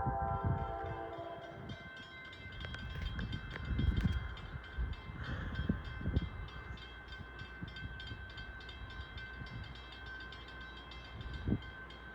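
NJ Transit train's horn sounding a chord that cuts off about two seconds in, then the train running with a steady high whine over a low rumble, with wind gusting on the microphone.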